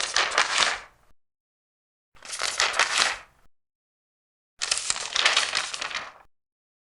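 Large paper pages being turned, three times: each turn is a rustling crackle of paper lasting about a second, with silence between turns.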